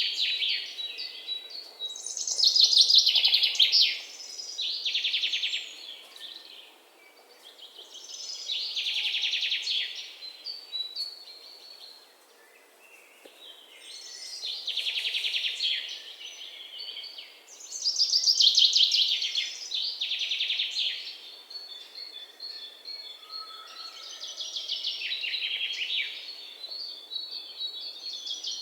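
Bird song: high-pitched phrases of fast chirps and trills, each a second or two long, repeating with short pauses between.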